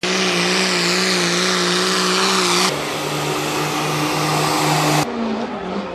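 Street 4x4 pulling-truck engines running hard at steady high revs, with a strong high whine, in three edited clips that cut off abruptly, about 2.7 s and 5 s in, each at a different engine pitch.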